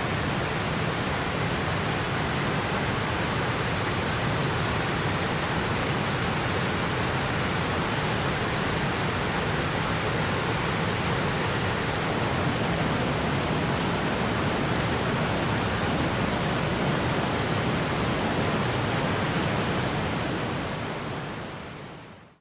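Steady rush of falling water from Ryumon Falls, a large waterfall, fading out near the end.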